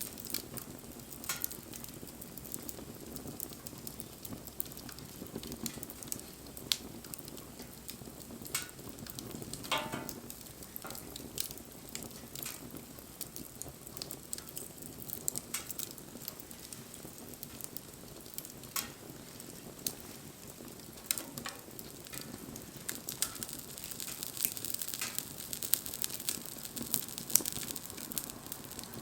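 Wood fire crackling: a steady low hiss with scattered sharp pops and snaps, which come more often near the end.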